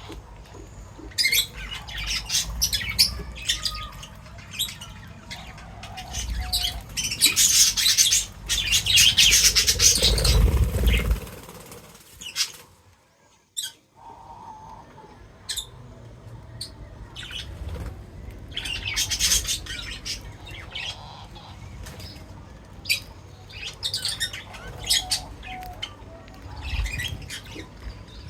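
Small birds at a feeder chirping and squawking in quick, overlapping calls, with wing flutters and rustling. It is loudest and busiest about a third of the way in, and there is a brief silent gap just before the middle.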